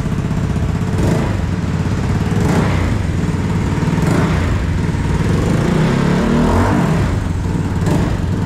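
Yamaha NMAX V2 scooter's single-cylinder engine running loud through a freshly fitted Zeus aftermarket exhaust, with brief surges about a second in, at about two and a half, four and eight seconds, and the pitch rising and falling a little past the middle.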